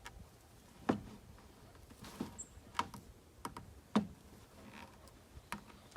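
About six separate light clicks and knocks of a hose fitting being handled and tightened as the Teflon-taped male end is screwed into the plastic bucket.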